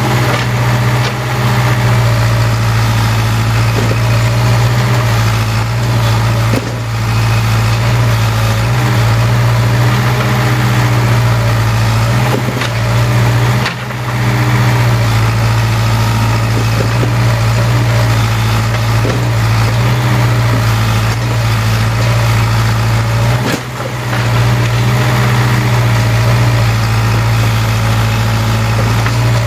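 Case 580K backhoe loader's four-cylinder diesel engine running steadily, with a few brief dips in level.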